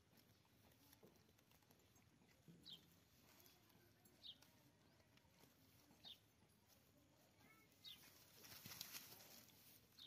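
Near silence with faint outdoor ambience: a small bird gives a short, falling chirp over and over, about every second and a half to two seconds, and a brief rustle comes near the end.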